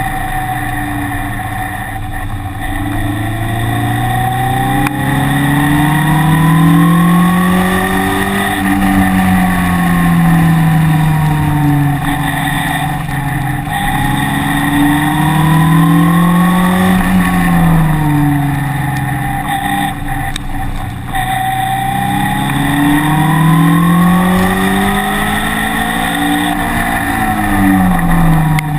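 A car engine being driven hard, its revs climbing steadily under acceleration and then falling away as the driver lifts off, three times over.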